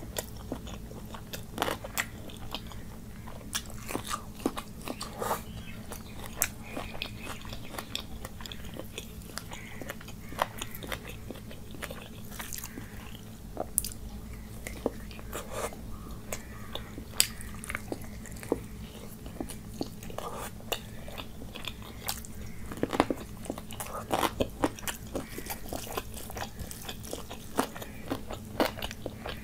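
Close-miked eating: chewing and crunching of rice and curry eaten by hand, with sharp mouth clicks and smacks at irregular intervals over a low steady hum.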